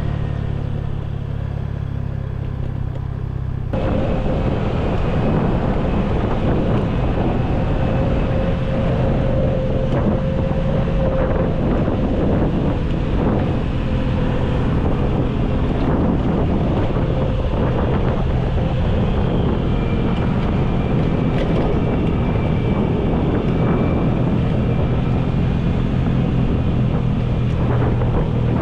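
An engine running steadily under way, with wind buffeting the microphone. About four seconds in it suddenly gets louder and fuller and stays that way.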